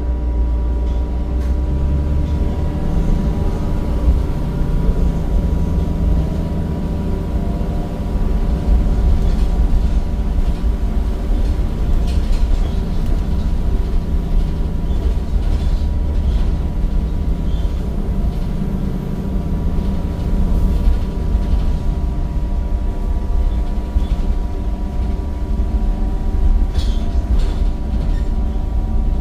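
Temsa Avenue bus's Cummins diesel engine and ZF automatic gearbox heard on board while the bus drives: a steady deep rumble with a constant whine over it, and a few short knocks.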